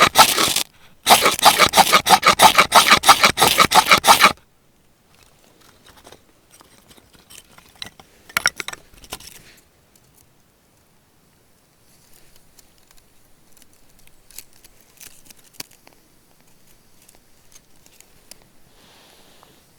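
Rapid, even scraping strokes, about five a second, with a brief pause about a second in, stopping about four seconds in; then only faint scattered rustles and clicks.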